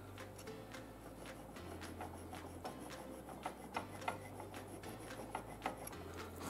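Small hand tool scraping at a diecast metal toy car body: a run of light, irregular scratchy strokes and ticks.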